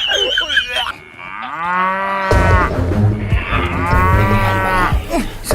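A cow mooing twice, each a long pitched call; the first rises and then holds, the second comes about two seconds later.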